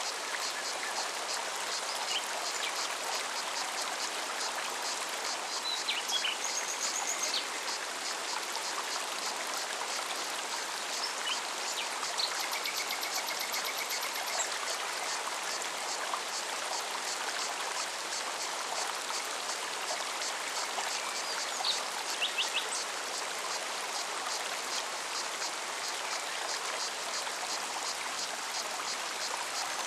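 Mountain stream flowing steadily, an even rush and splash of water. Above it a cicada's rapid, evenly pulsed high song, with a few short bird chirps and a brief trill.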